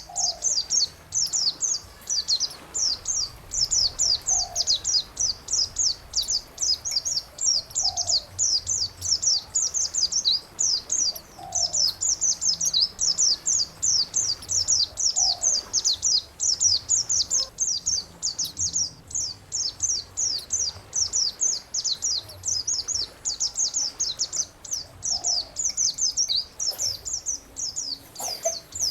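Songbird singing a fast, unbroken chattering song of rapid high down-slurred notes, recorded for training caged birds. A short, lower call repeats every three to four seconds beneath it.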